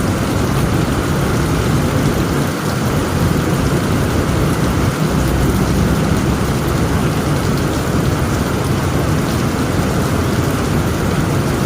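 Heavy rain pouring steadily on a tent roof, with a low rumble of thunder underneath that swells a little about five seconds in.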